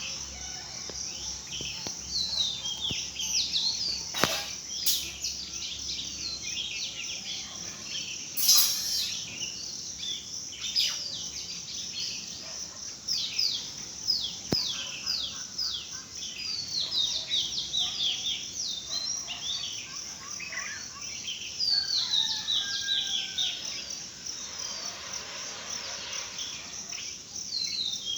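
Many small birds chirping together in a dense chorus of short, quick, downward-sliding chirps, over a steady high insect buzz. A few sharp clicks cut through, the loudest about eight and a half seconds in.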